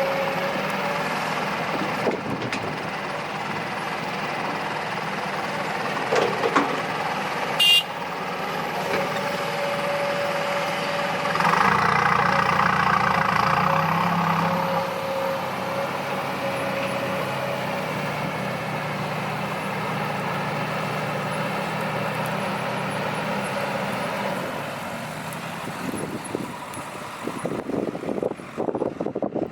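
Heavy diesel machinery running steadily, the engine surging louder for a few seconds about halfway through, with a few sharp metallic knocks early on and a rougher run of knocks near the end.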